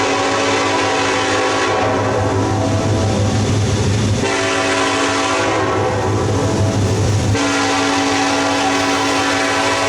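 Diesel freight locomotive's air horn sounding in long, held blasts, its chord shifting about four seconds in and again about seven seconds in, over the rumble of the train.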